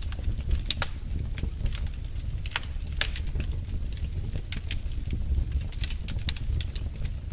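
Wood fire burning in a fireplace, crackling with irregular sharp pops a few times a second over a low steady rumble.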